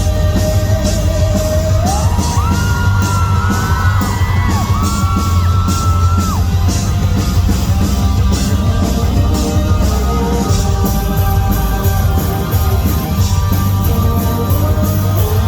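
A rock band playing live and loud, with drums and bass underneath and a high, held melody line that bends and steps upward in pitch over the first six seconds or so.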